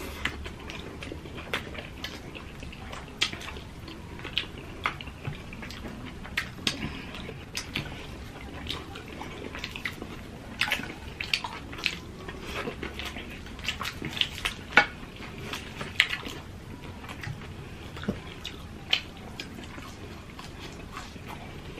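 Close-up eating sounds of two people eating with their hands: chewing, wet lip smacks and mouth clicks coming irregularly, several a second at the busiest.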